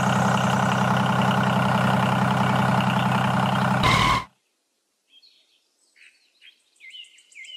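Toy power tiller's engine running steadily, with a dense even drone, cutting off abruptly about four seconds in. Faint scattered chirps follow near the end.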